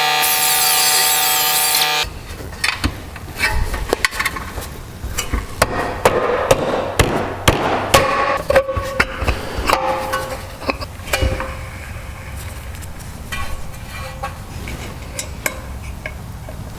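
A handheld cutoff tool whining at high speed as it cuts down steel bolt stems, stopping abruptly about two seconds in. Then a run of irregular clicks and knocks of metal parts being handled and fitted.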